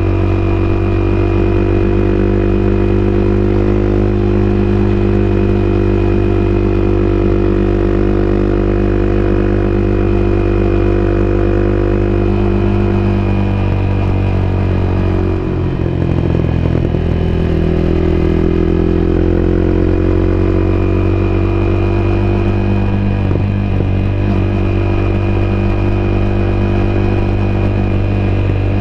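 Honda CBR250R's single-cylinder engine running steadily under the rider, heard on board at a constant cruising pace. About halfway through the pitch drops briefly as the throttle eases, then climbs back as the bike picks up again.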